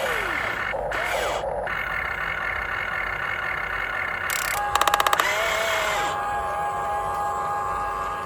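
Huina 1592 RC excavator's electric motors whining as it works, their pitch rising and falling as the controls change. A short fast rattle of clicks comes about five seconds in.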